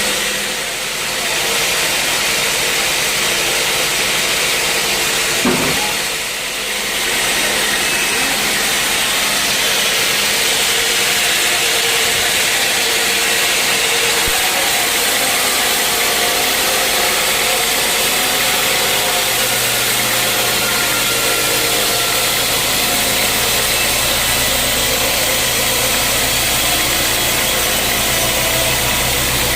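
Sawmill machinery running with a steady, loud mechanical noise. There is a single knock about five seconds in, and a deeper motor hum comes in about twenty seconds in.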